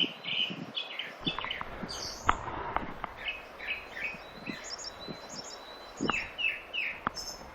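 Several songbirds chirping, in quick runs of short repeated notes, with a few sharp light knocks between them.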